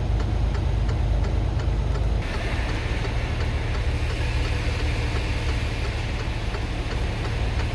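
Semi truck's diesel engine running at low speed, with a light ticking repeating several times a second. About two seconds in, the low rumble drops and a steady hiss comes in.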